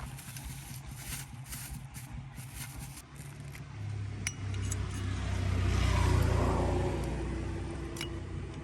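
A low-pitched engine running, swelling louder to a peak about six seconds in and then easing off, with a couple of light metallic clinks.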